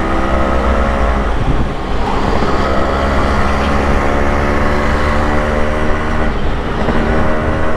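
Yamaha RX100's two-stroke single-cylinder engine running steadily under a rider, over wind and road rumble. The engine note drops out briefly about two seconds in, then holds steady again.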